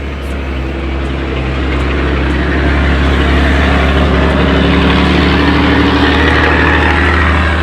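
Trucks passing on the paved road alongside: engine and tyre noise that builds over the first few seconds, stays loud, then eases a little near the end.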